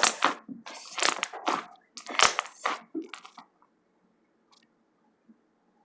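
Slime being squeezed and popped by hand, a run of crackly, squelching pops for about three and a half seconds, then it goes nearly quiet.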